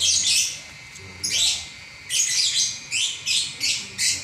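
Lovebird chattering its continuous song ("ngacor") in rapid bursts of shrill, scratchy chirps. Two separate bursts open the song, then about two seconds in it runs into a fast string of about three bursts a second.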